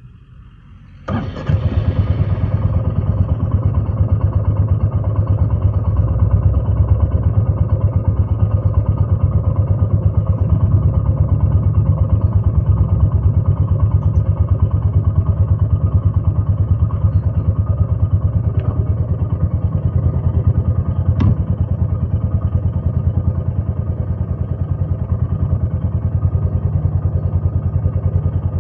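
Royal Enfield Meteor 350's single-cylinder engine started on the electric starter about a second in, catching at once and then running at a steady, evenly pulsing idle. Two short sharp clicks come later on.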